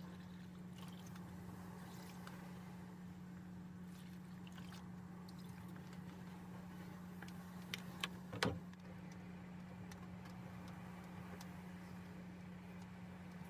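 A steady low hum, broken by a few sharp clicks and one louder knock about eight and a half seconds in.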